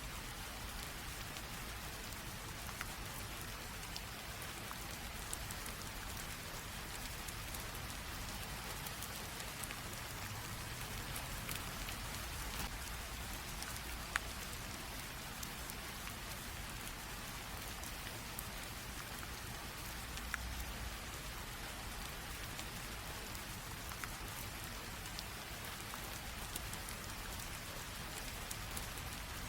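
Light rain falling steadily, with a continuous soft hiss and scattered individual drops ticking, one a little sharper about halfway through.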